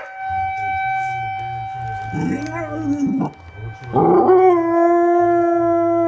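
A pet dog howling in imitation of a tornado siren: a short rising-and-falling howl, then, from about four seconds in, a long, steady, siren-like howl.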